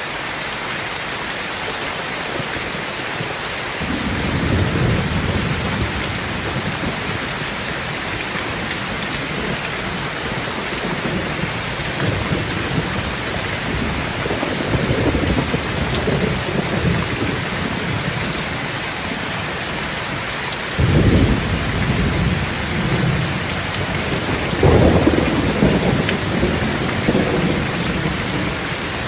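Steady heavy rain hiss, with rolls of thunder rumbling in several times: a first swell about four seconds in, more around the middle, a sharper clap about three-quarters of the way through and another loud roll soon after.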